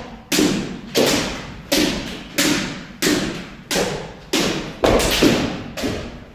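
A run of about ten sharp kendo strikes, one every two-thirds of a second, each ringing on in the hall's echo.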